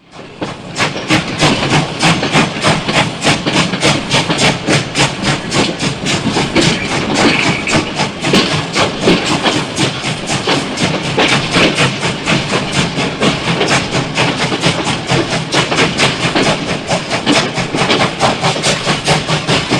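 Steam locomotive running at speed: a fast, even rhythm of exhaust beats, about four to five a second, over a steady hiss. It cuts off suddenly at the end.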